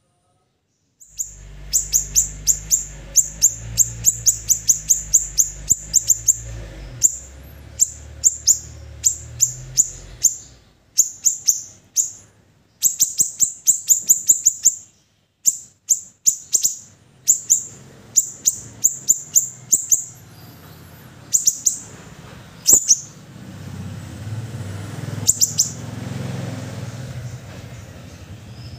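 Siri-siri songbird singing: fast trains of short, very high, sharp chirps, broken by brief pauses and starting about a second in.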